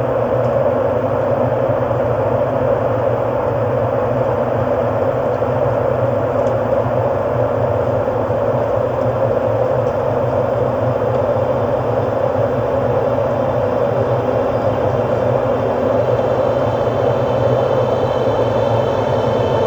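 Ambient drone music: a steady, dense, rumbling wash with no beat or melody.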